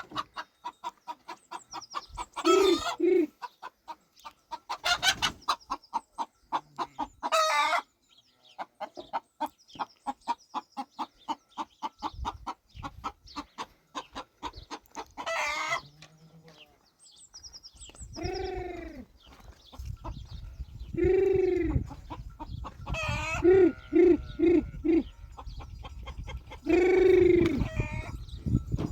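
Chickens clucking in a long run of short, rapid clucks, broken every couple of seconds by a louder call. From about two-thirds of the way through, longer, louder calls sound several times over a low steady background noise.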